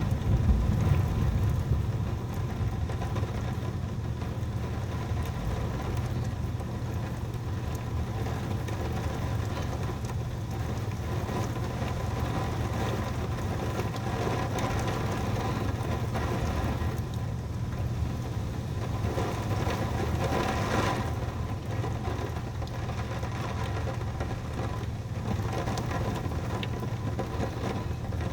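Heavy rain falling steadily over a constant low hum, with a low rumble of thunder in the first couple of seconds and a brief swell of rain hiss about twenty seconds in.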